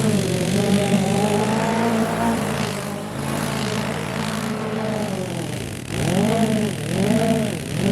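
Small petrol engine of a garden power tool running, its speed rising and falling over and over.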